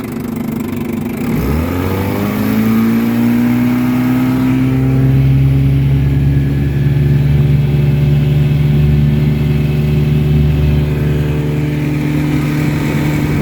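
1954 Johnson QD-15 10 hp two-stroke outboard opened up: its pitch climbs steeply for about three seconds, starting about a second in, then holds steady at high revs.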